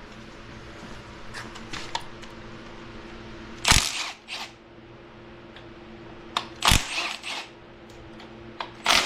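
Metal clinks and clanks of hand tools and engine parts as the timing chain and cam gear are worked off a Chevy 350 small-block: a few light ticks, then three sharp clanks about three seconds apart, each with a short rattle.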